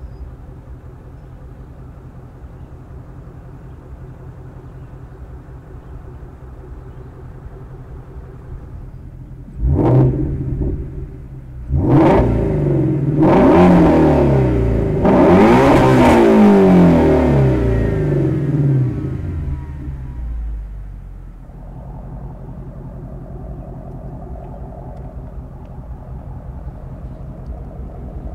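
2016 Ford Mustang Shelby GT350's 5.2-litre flat-plane-crank V8 idling, then blipped twice about ten and twelve seconds in, then revved harder for several seconds before the revs fall back to a steady idle.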